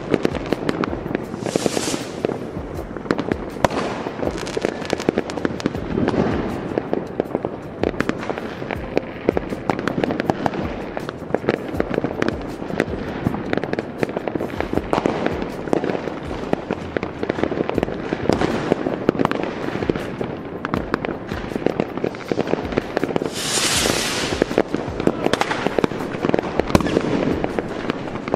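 Large fireworks display: an unbroken rapid string of bangs and crackles from many aerial shells going off at once. A few brief hissing bursts come through, one near the start and one near the end.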